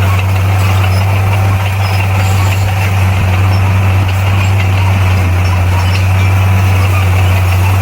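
Komatsu D58P bulldozer's diesel engine running steadily, a loud low drone that holds one pitch throughout.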